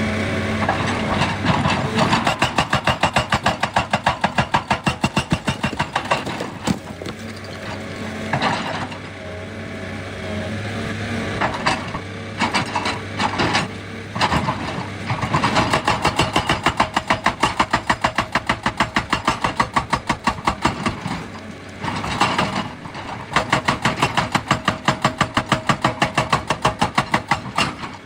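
Excavator-mounted hydraulic rock breaker hammering rock in long runs of rapid, evenly spaced blows, several a second. It pauses twice while the excavator's diesel engine keeps running.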